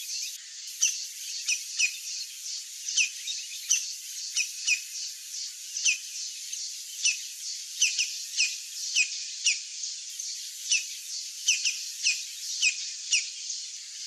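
A bird's short, downward-sliding chirps, repeated many times about once a second, over a steady high insect drone that pulses about three times a second.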